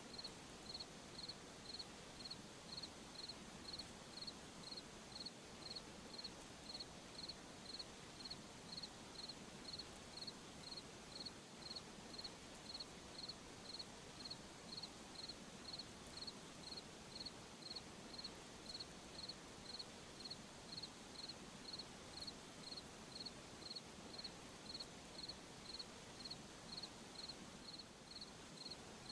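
A cricket chirping steadily at night, an even, high-pitched chirp repeating about twice a second over a faint background hiss.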